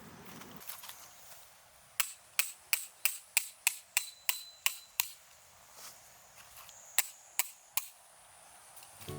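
Repeated sharp knocks of blows being struck: about nine at roughly three a second, a pause, then three more.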